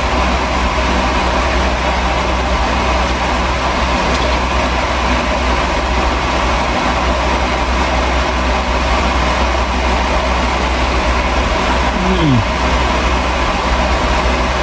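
Steady hum and rushing air of the camper's air conditioner and small fan running, with a brief falling tone about twelve seconds in.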